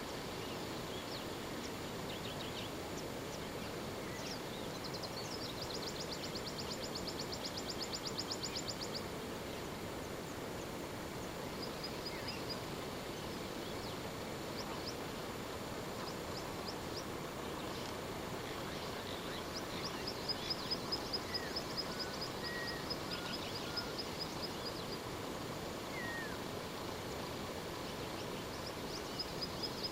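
Birds calling over a steady background hiss, in several bursts of rapid, high-pitched ticking trills and a few short whistles.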